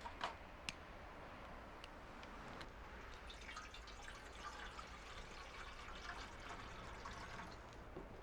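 Liquid trickling or pouring, faint, with two small sharp clicks in the first second.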